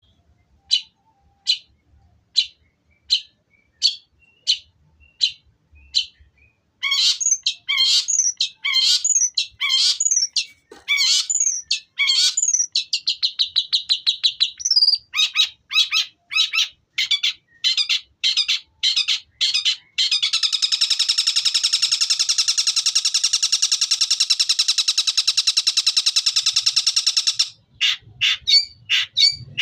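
Long-tailed shrike (cendet) singing, mimicking the long call of the tengkek buto. It opens with single sharp notes about every three quarters of a second, breaks into fast varied phrases and repeated notes, then holds a long rapid trill for about seven seconds before more quick notes near the end.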